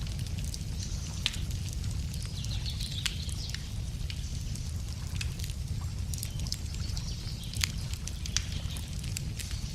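Wood campfire crackling, with sharp irregular pops over a steady low rumble, while songbirds sing faintly in the background.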